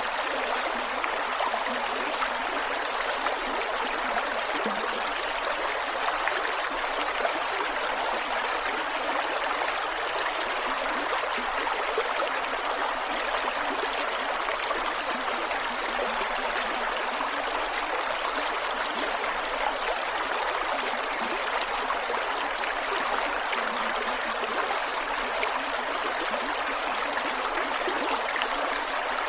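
Creek water flowing over rocks, a steady rush with gurgles and trickles.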